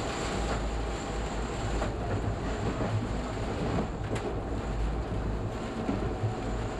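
Rapid-transit train running on the rails, heard from inside the front car as a steady rumble, with a single sharp click about four seconds in.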